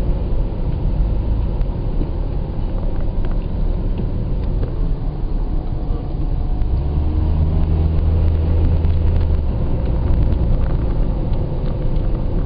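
A car driving, heard from inside the cabin: a steady low rumble of engine and road noise. The engine hum swells for a few seconds in the middle, then settles back.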